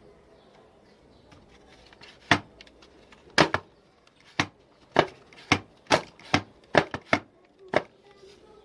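A series of about a dozen sharp knocks or taps, unevenly spaced, starting about two seconds in.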